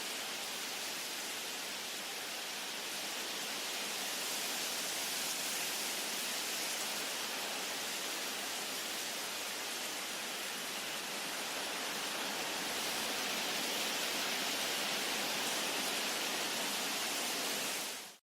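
Wind blowing through forest trees, a steady rushing hiss of stirring leaves and branches that swells a little partway through and cuts off suddenly near the end.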